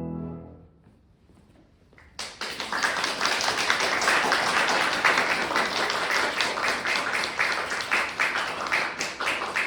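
The final piano chord dies away, and after about a second of near silence an audience breaks into applause about two seconds in, clapping steadily to the end.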